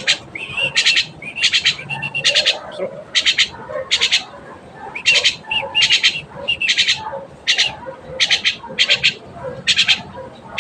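Pet bird calling over and over in short, harsh squawks, nearly two a second, with a few shorter whistled notes in between.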